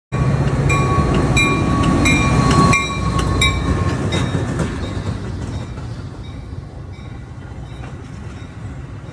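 A train rolling past: a heavy rumble with a regular clickety-clack of wheels over rail joints, about one click every 0.7 s. A thin steady whine drops away about four seconds in, and the whole sound fades as the train moves off.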